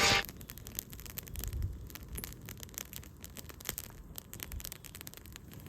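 Wood fire crackling, with irregular sharp pops and snaps over a low hiss. A song cuts off right at the start.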